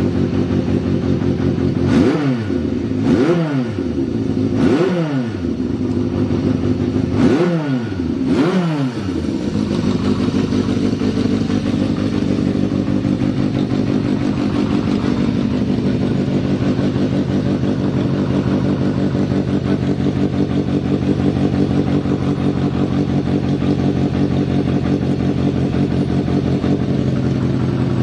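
Yamaha XJ550's air-cooled inline-four engine idling, blipped by the throttle five times in quick succession in the first third, each rev rising and falling back. It then settles into a steady idle.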